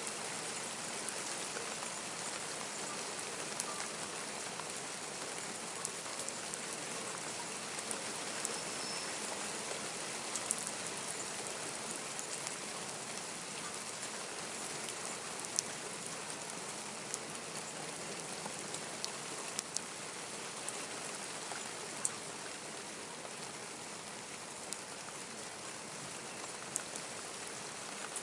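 Steady rain falling, with scattered sharp drop ticks on nearby surfaces.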